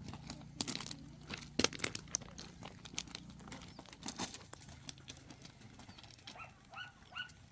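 Irregular rustling, crinkling and small knocks of things being handled. Near the end come a few short, high chirping calls.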